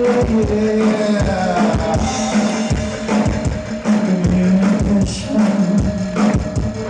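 Live synth-pop band playing: a steady drum-kit beat under sustained synthesizer and bass notes, with a little singing.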